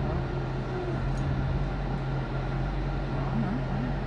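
Chrysler 300 SRT8's 6.4-litre Hemi V8 idling, a steady low hum heard from inside the cabin.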